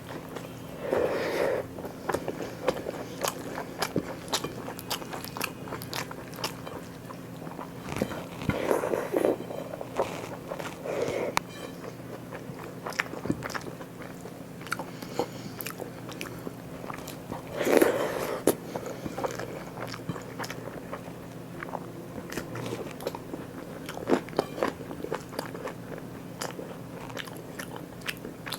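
Close-miked eating: chewing and biting with wet mouth clicks and occasional crunches, with louder bites about a second in, around 9 and 11 seconds, and the loudest near 18 seconds. A faint steady hum runs underneath.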